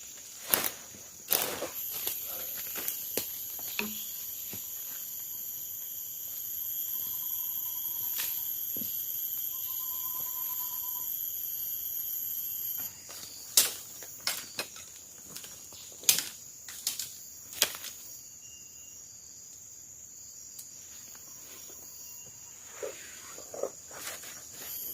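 Forest insects buzzing and shrilling in steady high tones, with scattered sharp knocks and snaps over them, several of them loud. Two short whistled notes sound in the middle.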